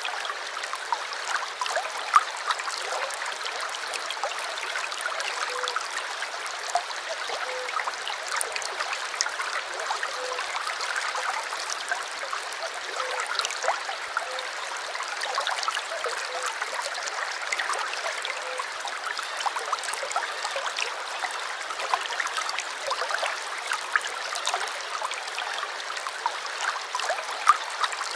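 Small stream babbling steadily, the water trickling and gurgling with many little splashes.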